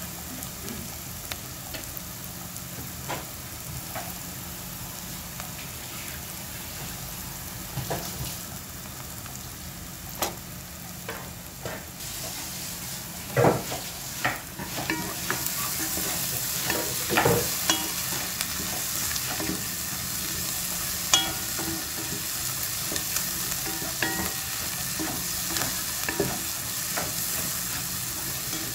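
Chopped onion and garlic frying in oil in a nonstick pot, stirred with a wooden spatula that scrapes and knocks against the pan. The sizzle grows louder about halfway through, once tomato paste goes into the hot pan, with a few sharp knocks loudest around then.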